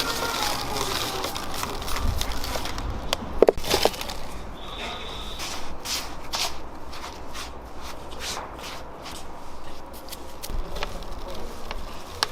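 A run of irregular clicks and knocks, with a louder knock about three and a half seconds in and a brief high tone about five seconds in.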